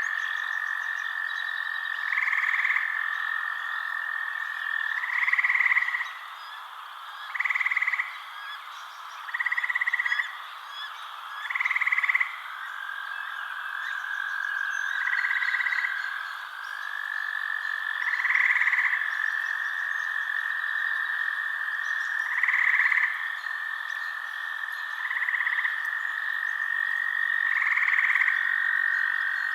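Frogs calling, one croak roughly every two to three seconds, each lasting about a second, over an unbroken high, steady trill.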